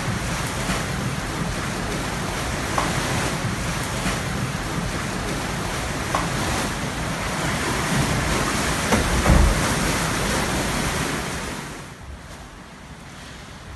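Hurricane-force wind blowing hard and buffeting the microphone, with a strong gust about nine seconds in; the wind eases about twelve seconds in.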